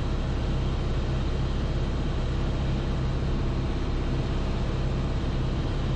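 Piper Archer's four-cylinder Lycoming engine and propeller droning steadily in flight, heard through the pilot's headset audio feed.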